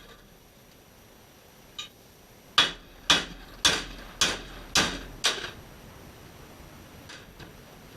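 Six sharp hammer blows on metal, about two a second, knocking an old bearing out of a YZ125 crankcase half, each blow ringing briefly.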